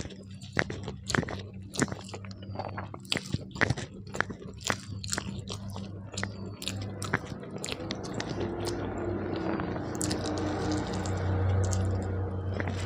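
Close-miked eating of rice with dal and fish curry: wet mouth clicks and smacks of chewing for the first several seconds, then a denser, continuous wet chewing noise. A steady low hum runs underneath.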